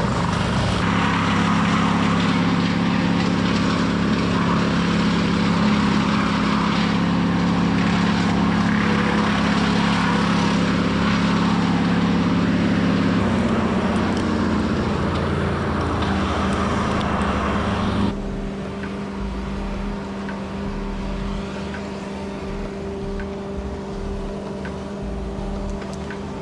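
Gasoline engine running steadily at high speed, its pitch changing about halfway through, then dropping to a quieter steady running sound about two-thirds of the way in.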